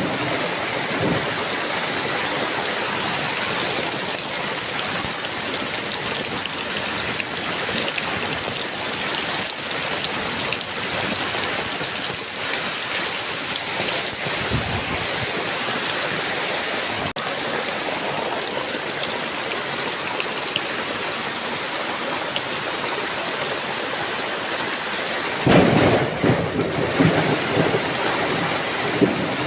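Steady heavy rain, with a louder rumble of thunder near the end.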